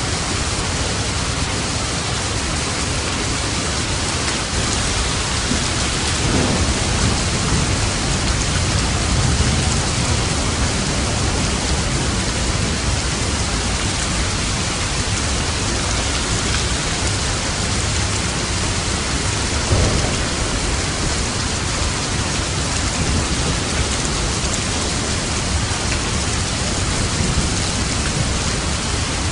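Steady heavy rain, with low thunder rumbling through the first third and a short, louder rumble about twenty seconds in.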